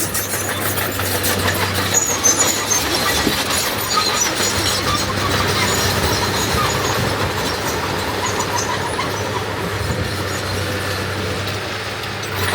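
D21 bulldozer's diesel engine running steadily under load, with irregular squeals and clanks from its steel tracks as it moves.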